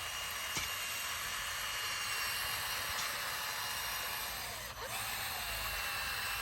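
Bulldozer running at a distance: a steady hiss and whine, its pitch dipping briefly and recovering near the end.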